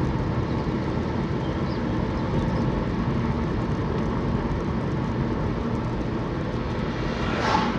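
Steady low rumble of engine and road noise inside a moving car's cabin, with a short hiss near the end.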